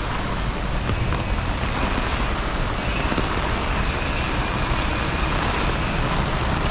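Steady hiss of heavy rain falling on a wet street.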